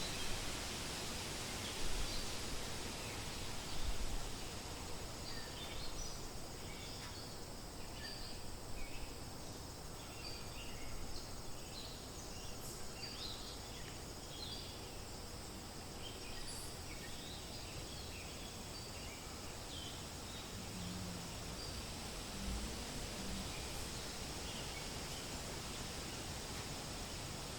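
Wind rustling through forest leaves in a steady hiss, with many faint, short bird chirps scattered through the first half and fewer later on.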